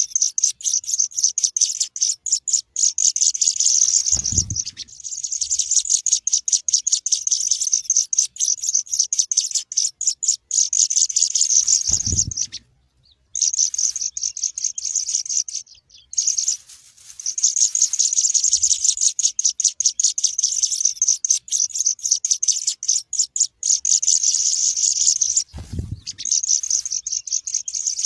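Sparrow chicks calling in a fast, continuous stream of high, shrill chirps, pausing briefly twice. Three dull low thumps are heard along the way.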